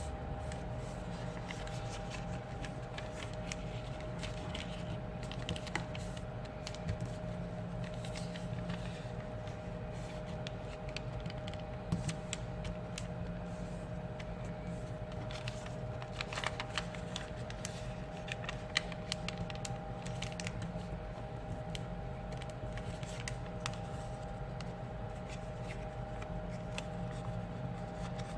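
Sheet of paper being handled, folded and creased by hand, with irregular crinkles and taps over a steady electrical hum.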